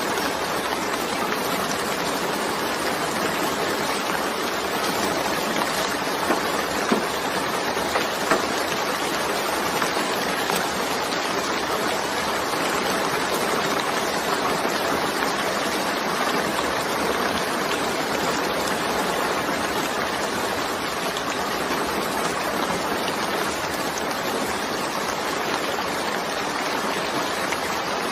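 Steady, even hiss of heavy rain, with a few sharper drop hits about six to eight seconds in.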